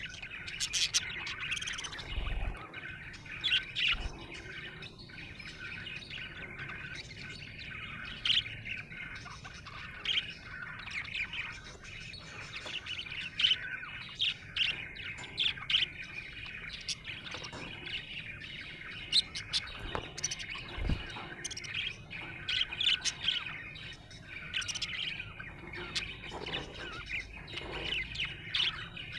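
Budgerigar chattering continuously, a warble broken by many short, sharp chirps and the odd squawk.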